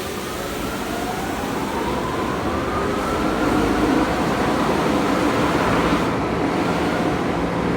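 Car wash blower dryer starting up: a rush of air with a whine that climbs steadily in pitch and grows louder as the blowers come up to speed, then levels off.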